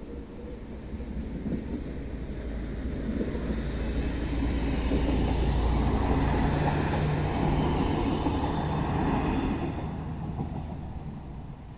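Single-car diesel passenger train passing over a level crossing: the engine and wheel rumble grow louder as it approaches, peak about halfway through, and fade as it moves away.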